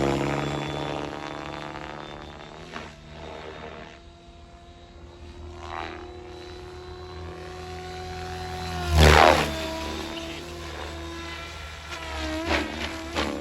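SAB Goblin 570 electric RC helicopter in flight, its rotor and motor whine swelling loudly as it passes close at the start and again about 9 seconds in, the pitch dropping each time as it moves away.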